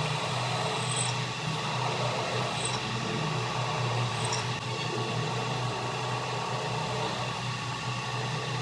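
A machine running steadily with a constant hum and a few faint steady whining tones above it.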